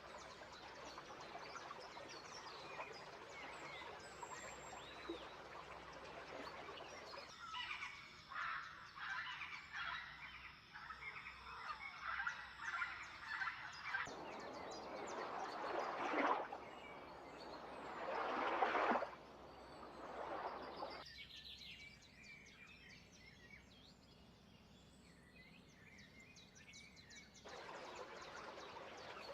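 Wild birds calling and chirping over outdoor background noise, with a run of quick repeated chirps and two loud rushing swells past the middle; the background changes abruptly several times, as if separate recordings were joined.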